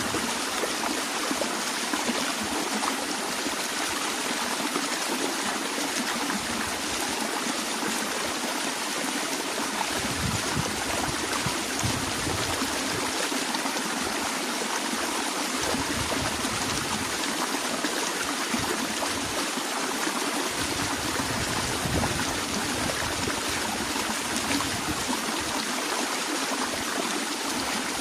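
A stream flowing and trickling steadily over rocks, with occasional low rumbles in the water.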